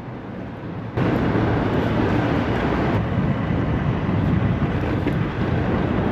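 Steady rush of wind over the microphone and road noise while riding an electric scooter through city traffic. It gets suddenly louder about a second in.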